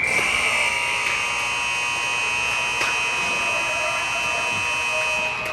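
Arena buzzer sounding one steady, buzzy tone for about five seconds, then cutting off.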